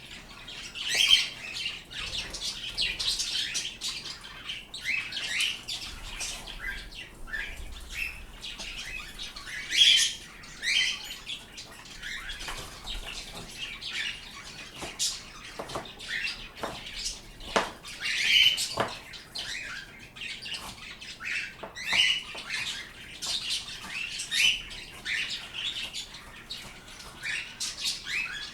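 Pet birds chirping and squawking almost without a break, in short, high calls, with sharp clicks and taps here and there.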